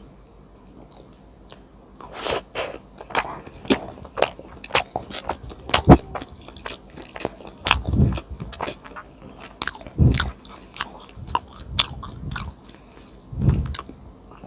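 Close-miked eating: crisp crunching bites and moist chewing, starting about two seconds in, with a few deeper thuds among the sharp clicks.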